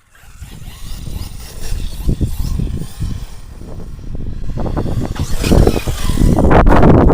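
Arrma Outcast 6S brushless RC truck being driven hard, its motor and tyres surging in uneven bursts and getting louder toward the end as the truck comes close.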